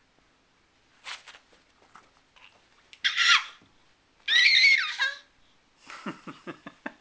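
Dogs tussling over a toy: two loud, high, wavering squeals, then about a second of low, rapid growling pulses near the end.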